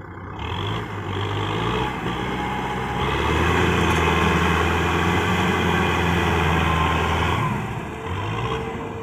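Tractor diesel engine revving up in two steps, holding high revs for several seconds, then dropping back, with a short blip of throttle again near the end.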